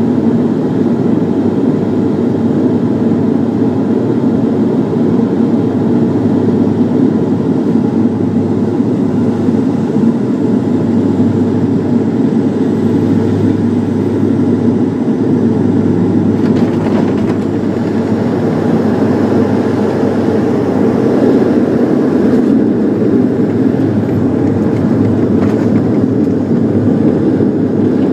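Loud, steady cabin noise of a Bombardier Dash 8 turboprop airliner, its engines and propellers running.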